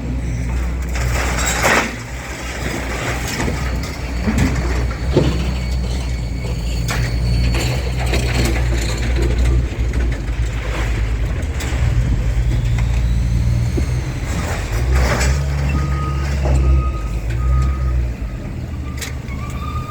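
A heavy diesel engine running steadily, with scattered metallic knocks and clanks. Near the end a backup alarm beeps several times.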